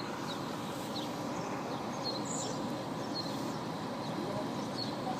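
Steady low rumble of idling diesel coach engines left running, with small birds chirping now and then.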